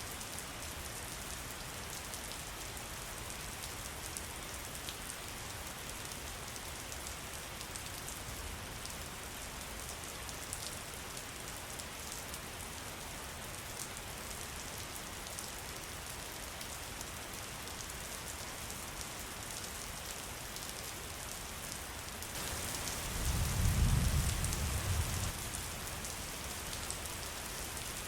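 Steady rain with fine scattered drop ticks. About three quarters of the way through, a low rumble swells for a few seconds and fades back into the rain.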